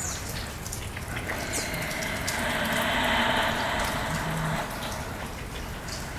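Steady falling rain, swelling louder for a couple of seconds around the middle into a fuller gushing wash of water.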